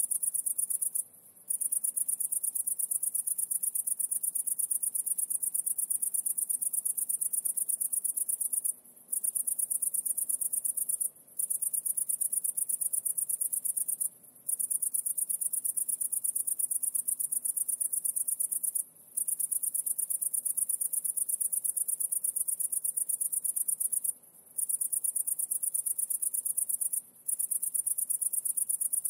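An insect trilling: a continuous, very high-pitched, fast-pulsing trill that breaks off for about half a second several times.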